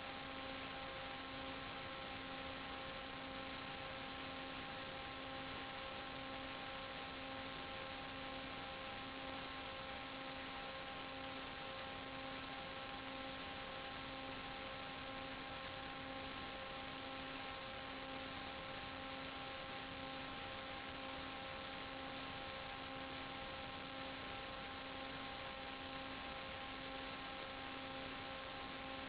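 Steady electronic hiss with a constant hum of several steady tones, the lowest one wavering in level: the empty audio channel of an analog 5.8 GHz FPV video link, carrying no live sound.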